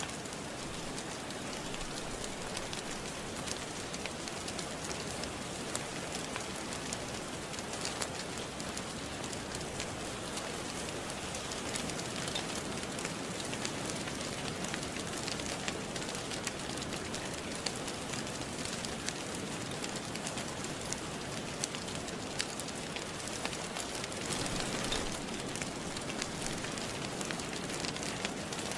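Steady rain falling, with a fire crackling: sharp little pops and snaps scattered through the constant hiss of the rain.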